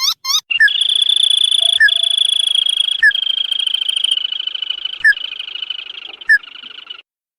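Recorded crake call used as a bird lure: a few quick rising notes, then a long fast trill with sharp single notes every second or two, fading near the end.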